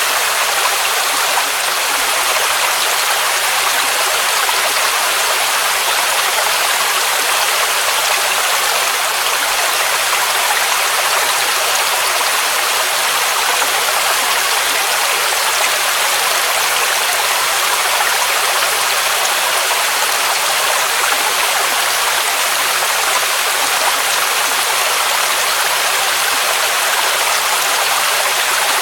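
Waterfall: water rushing and splashing in a steady, unbroken hiss, bright and thin with little deep rumble.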